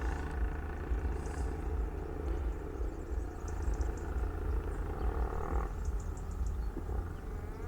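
Low, uneven rumble like wind buffeting the microphone, with a faint steady hum that stops about six seconds in.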